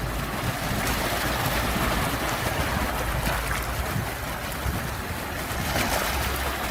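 Sea waves washing and breaking: a steady rush of surf that swells and eases gently, with a low rumble beneath.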